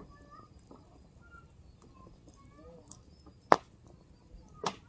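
Burning firewood in a campfire popping: two sharp cracks about a second apart near the end, over a low background with faint short bird calls.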